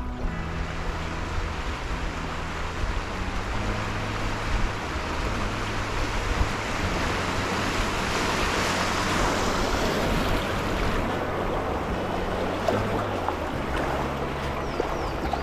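Steady rushing of river water, swelling in loudness around the middle, over low sustained background music.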